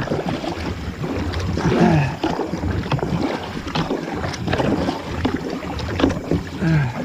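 Kayak being paddled upstream against a river current: irregular paddle splashes over the rush of water past the hull, with a low rumble of wind on the microphone.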